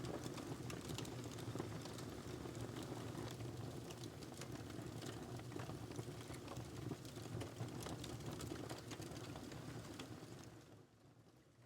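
Wood fire in a fireplace crackling and popping with sharp irregular snaps over a low steady rumble, fading down sharply about ten seconds in.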